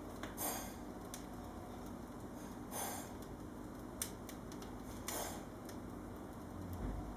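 Wood fire crackling in an open fireplace: a few separate sharp pops and snaps, a second or so apart, over a steady low background.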